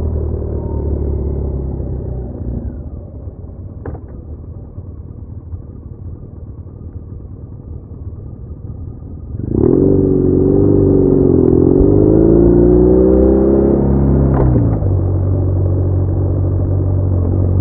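BMW R1200R boxer-twin motorcycle engine on the move: running softly off the throttle for several seconds, then opened up sharply about halfway through, the revs rising and falling for about five seconds before easing back to a steady cruise.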